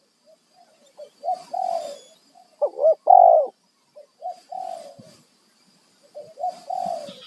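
Spotted dove cooing in about four short phrases of low coos, the loudest about three seconds in, over a faint steady high tone.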